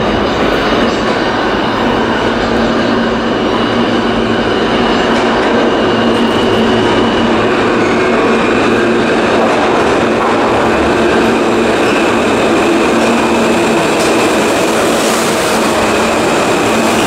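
New York City subway train running, heard from inside the car: a loud, steady rumble of wheels on rail with a faint held motor whine.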